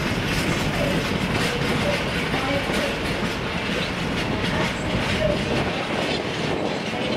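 Tank wagons of a long freight train rolling slowly past, their wheels clattering steadily over the rail joints. Now and then a short wheel squeak sounds.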